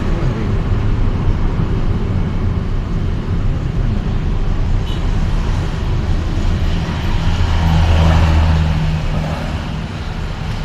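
Road traffic and vehicle engine noise heard while moving through city streets: a continuous low rumble that swells to its loudest, with an engine hum, about eight seconds in, then eases off.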